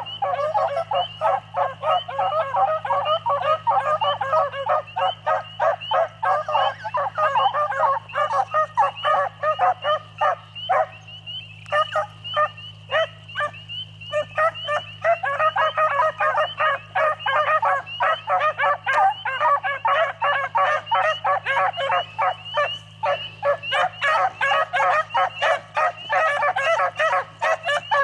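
A pack of beagles baying and yelping without pause while running a rabbit track, many voices overlapping. The cry thins out briefly about eleven seconds in, then comes back full.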